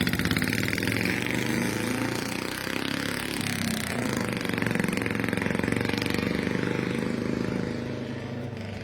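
A 1957 Cushman Eagle scooter's single-cylinder Husky engine running with a steady pulsing beat. The engine speed rises and falls a few seconds in, and the sound eases off slightly near the end.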